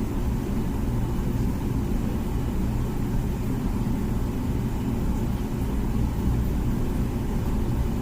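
Comfee dishwasher running a normal wash cycle: a steady low mechanical hum.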